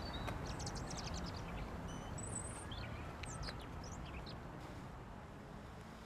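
Small birds chirping in short, high, thin notes, thickest in the first four seconds and thinning out after, over a steady low background rumble.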